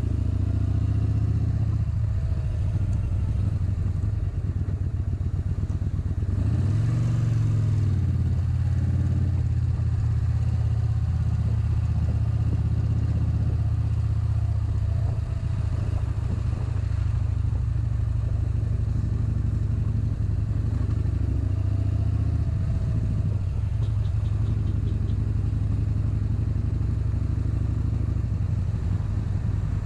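Motorcycle engine running steadily while riding along, with a brief swell in pitch and loudness about seven seconds in.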